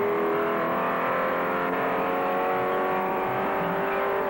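Ford 427 V8 racing engine running at high, steady revs, as at full throttle down a long straight. The sound is thin and dull, as on an old film soundtrack.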